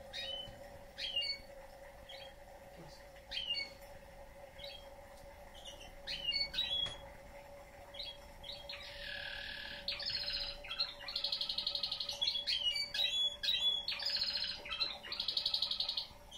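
Male canary singing: scattered short chirps at first, then from about halfway through long, rapid trills and rolls. A faint steady hum runs underneath.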